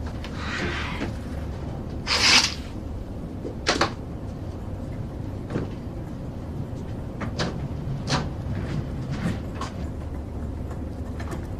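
Steady low airliner cabin hum, with a short rush of noise about two seconds in and a handful of sharp clicks and knocks after it, like a door or latch being worked.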